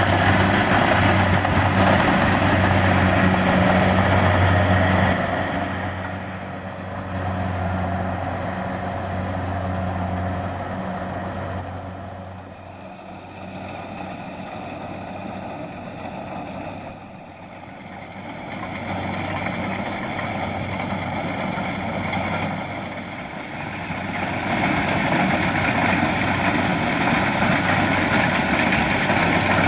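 Kubota DC-70 Plus rice combine harvester running steadily with a deep engine hum. It is loud at first, fades away through the middle, and comes back loud near the end.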